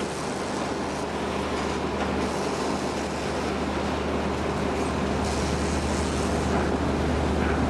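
An engine or heavy machinery running steadily: a constant low drone with a noisy hiss over it.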